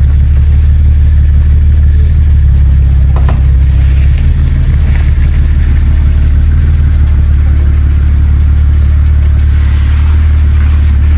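BMW E90 330i's N52 straight-six engine idling steadily with a low, even hum, running again after two months off the road.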